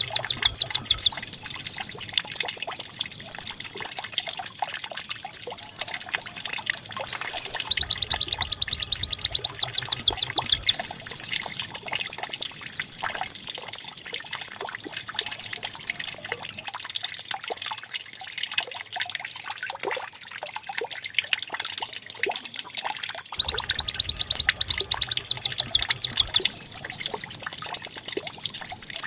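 White-eye (pleci) song, played as a lure recording to set other pleci singing: high, rapid chattering trills broken by a rising-then-falling whistled note, in repeating phrases of about six seconds. The song stops for about seven seconds past the middle, then starts again.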